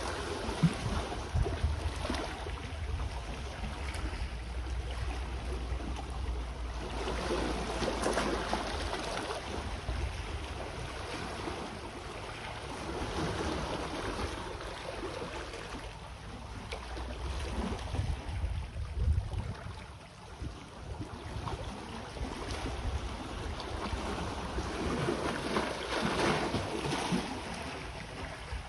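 Sea waves washing on the shore, the wash swelling and easing every five to seven seconds, with wind rumbling on the microphone.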